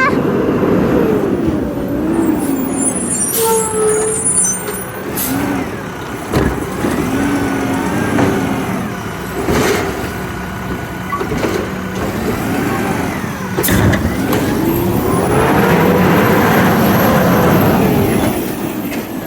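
Garbage truck running close by, its engine pitch rising and falling, with several sharp hisses and bangs typical of air brakes and the truck's equipment. Near the end the engine speeds up and slows back down in one long swell.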